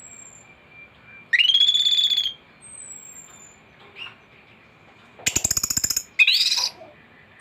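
An anis thrush singing a varied song of separate phrases: a thin falling whistle, a loud full phrase, a fast rattling trill and another loud phrase near the end. A faint steady high tone runs underneath.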